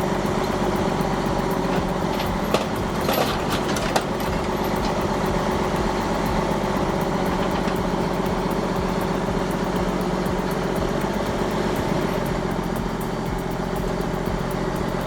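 Heavy truck engine running steadily at idle, with a few sharp clicks or knocks about three to four seconds in.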